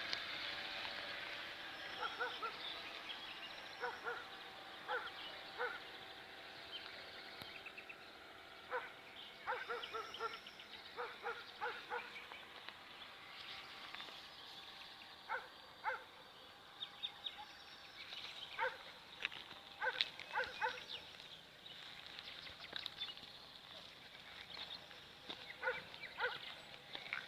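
Birds chirping in the background, with many short, pitched animal calls coming singly and in quick clusters throughout.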